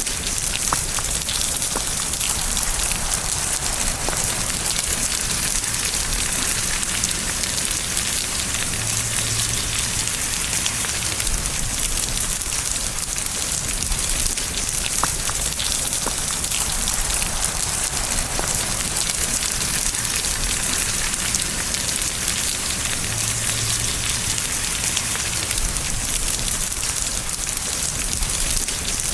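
Steady rain falling, an even hiss of many drops with the odd louder single drop standing out.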